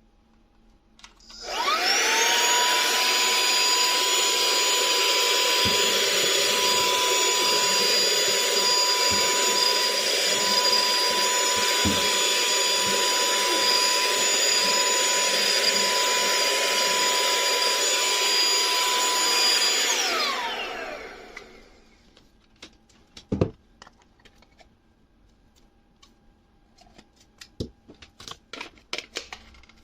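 Cordless handheld car vacuum with a brushless motor switching on with a rising whine and running steadily with a high whine and rushing air for about eighteen seconds. It then switches off as the whine falls away. A few knocks and clicks of handling follow.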